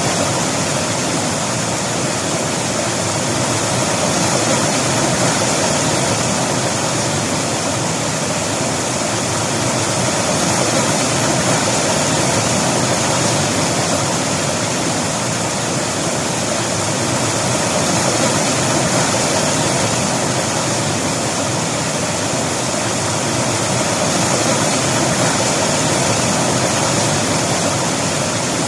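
A river flowing: a steady, full rush of moving water that swells and eases gently every few seconds.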